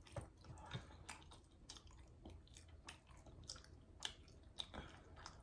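Faint chewing of fried chicken, with many short wet mouth clicks and smacks scattered throughout.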